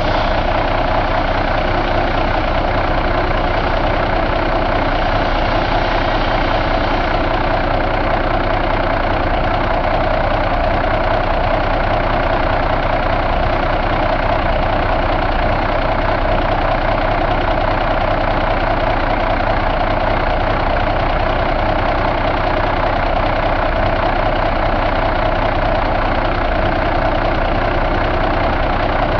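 2009 Cummins ISX inline-six diesel engine idling steadily, with no change in speed.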